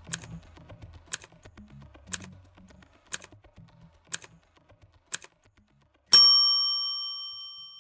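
Quiz countdown-timer sound effect: clock-like ticks about once a second with fainter clicks between them, then a bright bell chime about six seconds in that rings out and slowly fades, marking the end of the thinking time.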